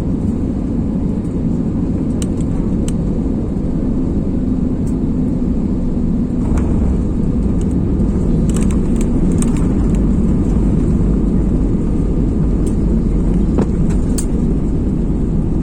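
Steady low rumble of an Airbus A320's engines and airflow, with a few faint clicks and rattles. It grows a little louder about six seconds in.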